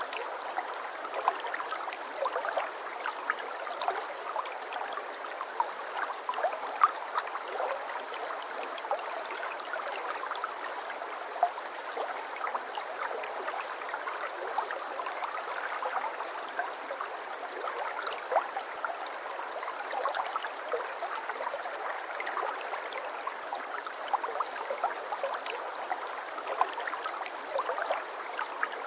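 Shallow brook babbling steadily, with many small splashes and plops over a constant water rush.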